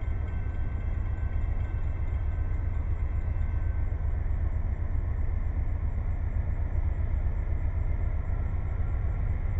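Low, steady rumble of an approaching train's diesel locomotive, getting a little louder early on.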